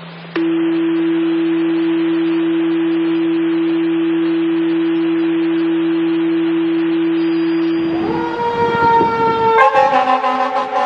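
A steady, unchanging tone over a hiss for about seven seconds. Then a fire apparatus's warning devices start: a horn tone from about eight seconds in, growing into loud air-horn blasts and siren near the end.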